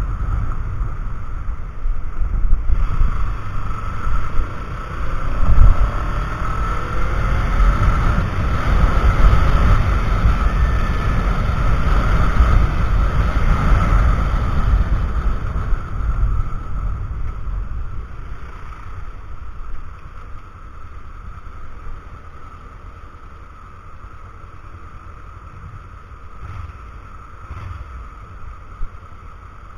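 Wind rushing and buffeting on a sports camera's microphone on a moving motorcycle, with the engine running underneath. The noise is loud for the first half, then drops off after about sixteen seconds.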